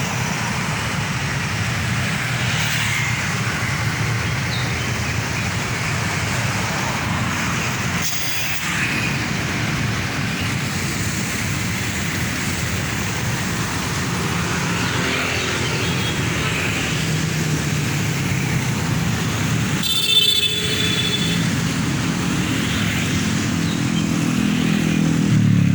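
Road traffic with a heavy truck's diesel engine running; near the end the engine note rises as it accelerates. A brief high-pitched sound cuts in about twenty seconds in.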